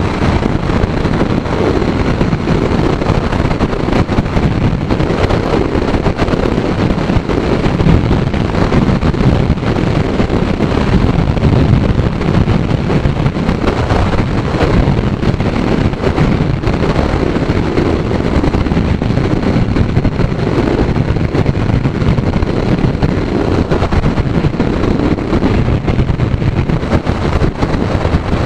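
Wind buffeting the microphone of a motorcycle riding at road speed, a steady rushing noise, with the bike's engine and tyres running underneath.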